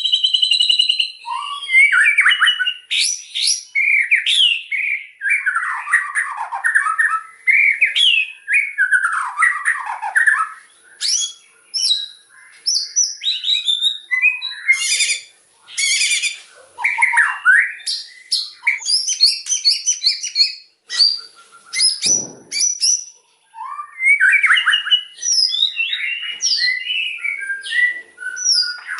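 White-rumped shama (murai batu) singing a long, varied song of rapid whistles, trills and chattering phrases with short pauses between them.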